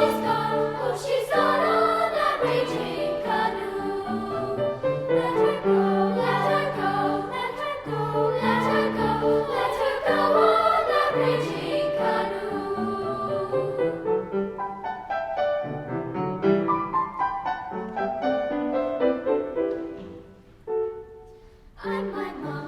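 Children's choir singing a choral arrangement. The music thins out and softens in the last few seconds, nearly dropping away briefly before the singing picks up again.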